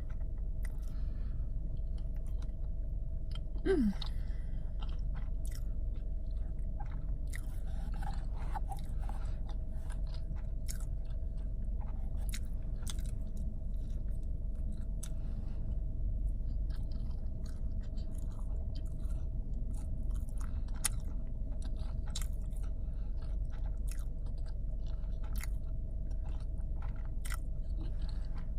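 Close-up chewing and wet mouth sounds of a person eating, with small crackles scattered throughout, over a steady low hum inside a car. About four seconds in there is a brief falling vocal sound.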